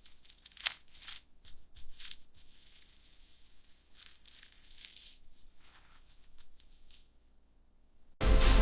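Faint, scattered crinkling and rustling, as of something being handled, with a few sharper clicks. Music starts abruptly near the end.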